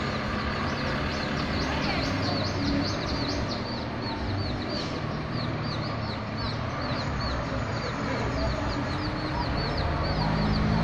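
Birds chirping in a quick repeated run of short high notes, several a second, over a steady low rumble, with chickens clucking.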